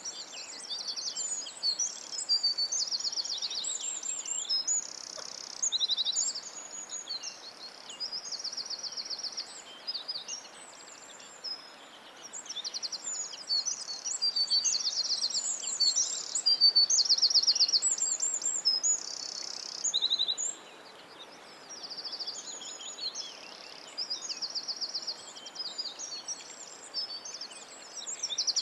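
Songbirds singing in a continuous chorus of high-pitched trills and chirps, the phrases overlapping one another, over a faint steady background hiss.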